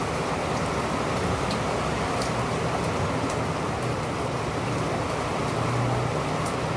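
Steady rain falling, with scattered sharp drop ticks over a dense patter, and a low steady hum underneath.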